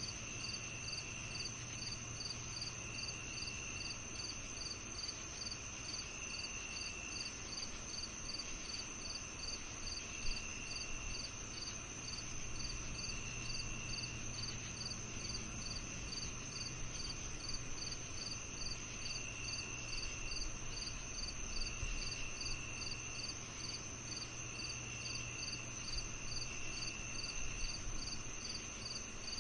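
Summer evening insect chorus: crickets chirping evenly about twice a second over a continuous high trill, with a lower trill about a second long coming and going every couple of seconds, over a faint low rumble.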